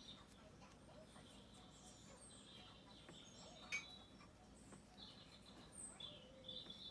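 Faint birdsong of high, repeated chirps and short trills, heard in several bouts. A single sharp click sounds a little past halfway through.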